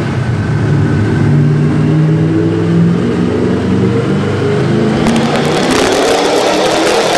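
Chevrolet Nova's engine running on a chassis dyno at a steady speed. About five seconds in the throttle opens hard and the revs climb steadily, as in the start of a dyno pull.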